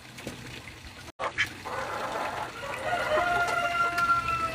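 A rooster crowing once. The long final note is held for nearly two seconds and dips slightly in pitch at the end.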